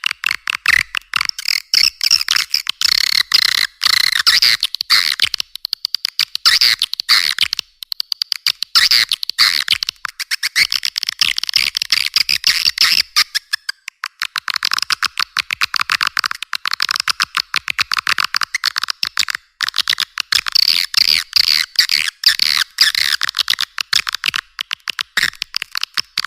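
Swiftlet lure call (suara panggil): dense, rapid high-pitched twittering and chirping of edible-nest swiftlets, played nonstop to draw the birds into a swiftlet house. The sound is thin, with no low end.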